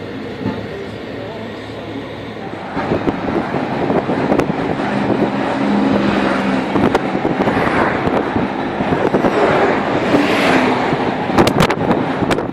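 A car driving along a highway: steady road and engine noise that grows louder about three seconds in. Several sharp clicks come near the end before the sound cuts off abruptly.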